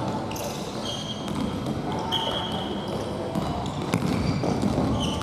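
Indoor futsal play: sneakers squeaking on the gym floor, with a couple of sharp ball kicks a little past the middle and faint players' voices.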